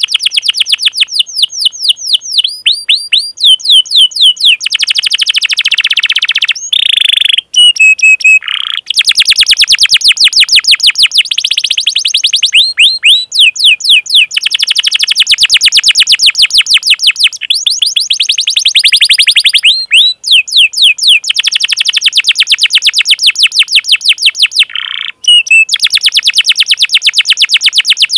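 Domestic canary singing loudly and almost without pause: long, fast trills of rapidly repeated falling chirps, broken now and then by short steady whistled notes. This is the long 'cuit cuit' calling and rolling song.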